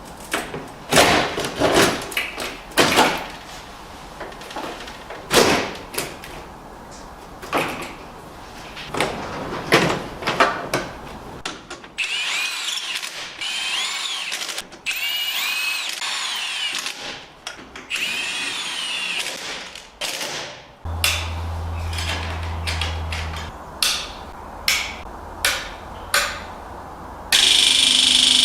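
Hand-tool knocks and clicks, then a power drill running in several bursts about halfway through, its whine rising and falling. More knocks follow, and near the end a loud steady mechanical noise starts abruptly.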